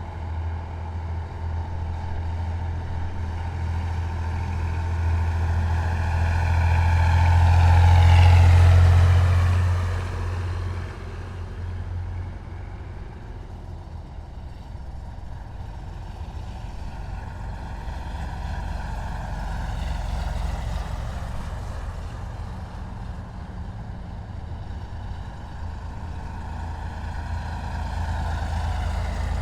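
Heavy military vehicles driving past one after another, their diesel engines giving a deep, steady drone. The loudest passes close about eight seconds in, its engine note falling as it goes by, and later vehicles swell up more faintly.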